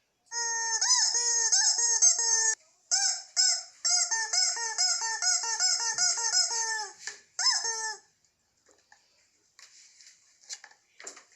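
A rapid series of short honking animal calls for about eight seconds, then fainter scattered sounds.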